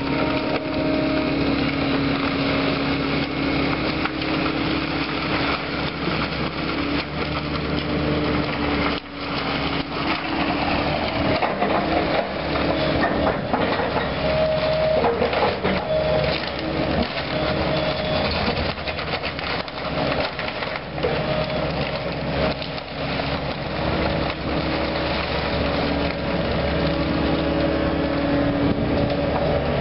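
Caterpillar demolition machine's engine and hydraulics running under load while it crushes and breaks wood debris, with repeated cracking and splintering. A higher whine comes and goes over the steady engine note.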